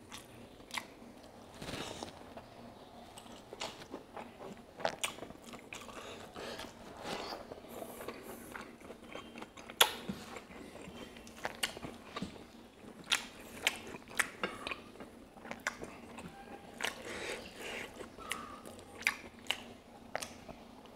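Close-miked mukbang eating of pork curry and rice: chewing and wet lip-smacking, with crunchy bites and many sharp, irregular mouth clicks, the loudest about ten seconds in.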